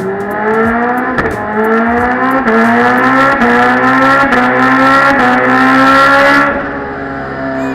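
Motorcycle engine run hard up through the gears: the note climbs, drops sharply at each shift, and climbs again about six times, then falls away to a lower, steadier note near the end.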